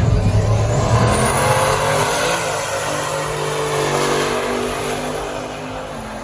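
A car engine revving hard, with a high whine climbing over the first second, then held at high revs before easing off near the end.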